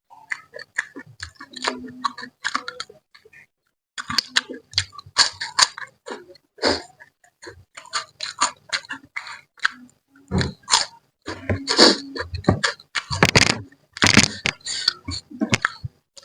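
A person eating spicy mangut made from a manyung sea catfish head. The sound is close, wet chewing and lip-smacking: a dense, irregular run of short smacks and clicks, with a short pause about three and a half seconds in.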